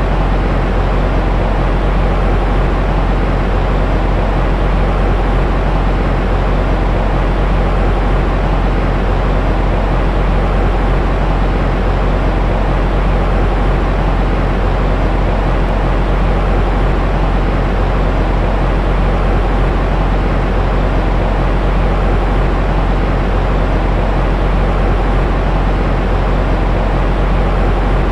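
Steady, unchanging white noise weighted toward the low end, a deep even rumbling hiss with no breaks, of the kind played to soothe an infant to sleep.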